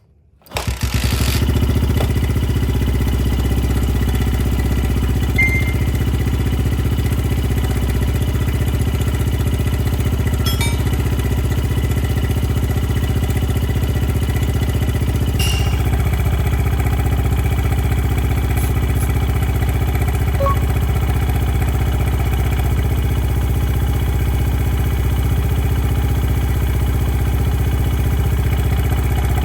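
Honda Ape 50's small air-cooled single-cylinder four-stroke engine idling steadily, coming in abruptly about half a second in.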